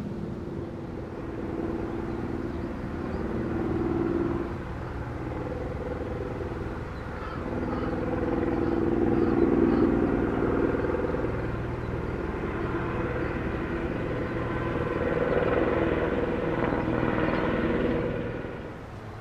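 Motor vehicle engines going past, a low hum that swells and fades three times before dropping away near the end.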